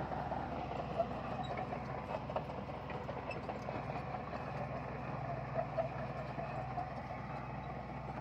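Bulldozer running steadily, with a light irregular clatter over the low engine hum.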